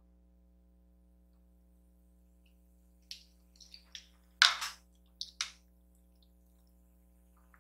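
Eating sounds: a few short, wet mouth clicks and smacks of chewing food, bunched together after about three seconds, the loudest a little after the middle.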